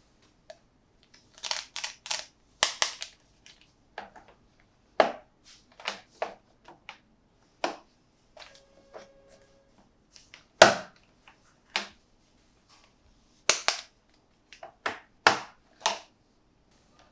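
Plastic toy packaging being handled and opened: sharp, irregular clicks and crackles, some in quick clusters of two or three, with one louder snap about two thirds of the way through.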